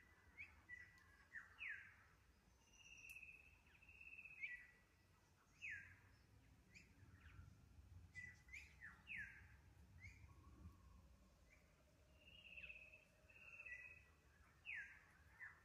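Faint forest birdsong: clear whistled notes and quick down-slurred whistles, coming in short phrases every few seconds.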